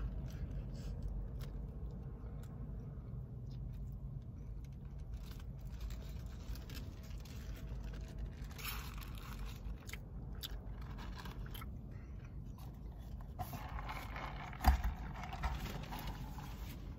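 Close-up chewing of a bite of cheeseburger, with small clicks and the burger's foil-lined paper wrapper crinkling and rustling, over a steady low rumble. A single sharp knock about fifteen seconds in is the loudest sound.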